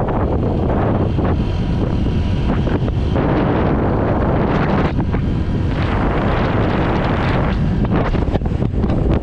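Strong wind buffeting the microphone of a moving Honda PCX150 scooter, a loud, heavy rumble that surges and eases from moment to moment and covers nearly everything else.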